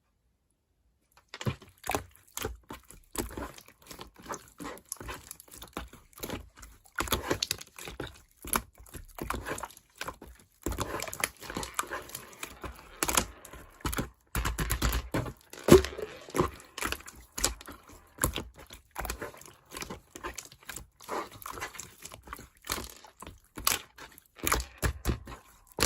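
Slime being squished and stretched by hand: irregular sticky crackles, clicks and pops, loudest about halfway through.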